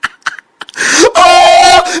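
A few short gasping breaths, then a shrill voice that sweeps up and holds one high note for about a second, a squeal in a fit of laughter.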